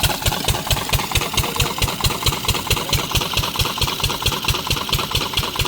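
12 hp single-cylinder diesel engine of an irrigation water pump set running steadily, with a rapid, even beat of exhaust thumps and a mechanical clatter.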